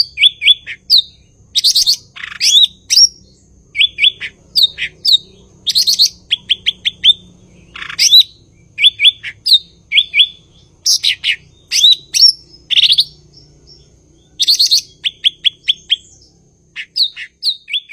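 Cucak ijo, a green leafbird (Chloropsis), singing a fast, varied song of short chirped notes. The notes come in quick runs of three to five, with brief pauses between phrases.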